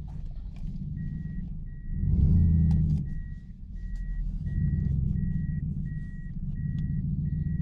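Lexus Soarer V8 with a straight-through exhaust rumbling at low revs, swelling in a short burst of throttle about two seconds in, then easing off and building again. An electronic reversing beep repeats evenly, about one and a half times a second, from a second in.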